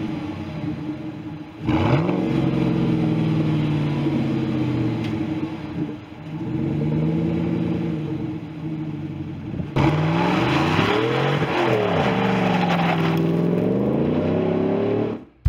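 Car engine revving through its exhaust: about four free revs whose pitch climbs and falls back, the last one higher and harsher. It stops abruptly near the end.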